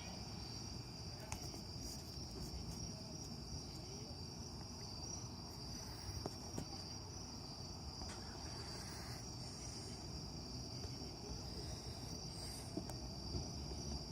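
Crickets chirping in a steady, high-pitched chorus, with a few faint clicks.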